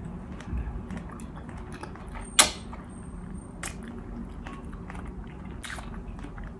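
Close-up eating sounds: a person chewing food, with scattered small clicks and one sharp, loud click about two and a half seconds in.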